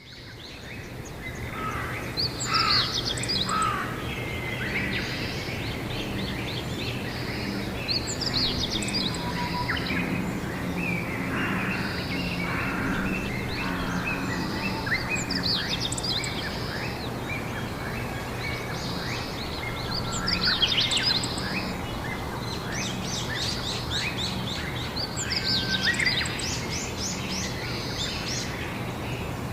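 Outdoor spring ambience of birds chirping and trilling again and again, with louder bursts of song a few seconds in, about twenty seconds in and near the end, over a steady low hum. The sound fades in over the first second or two.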